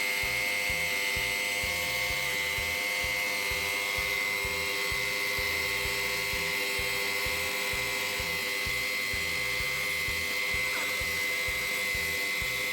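Electric high-pressure washer running steadily with a high motor whine, spraying a removed air-conditioner part clean.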